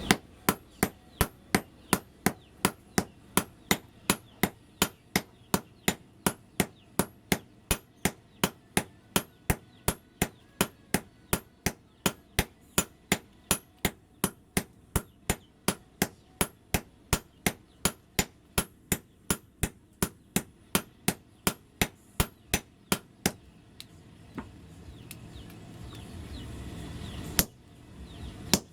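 Hand hammer forging spring steel on an anvil: steady, ringing blows at about two and a half a second. The blows stop about three-quarters of the way through. A steady noise then swells for a few seconds, and one last blow lands near the end.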